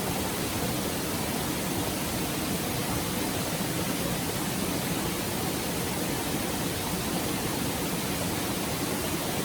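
Stream flowing: a steady, unbroken rush of water.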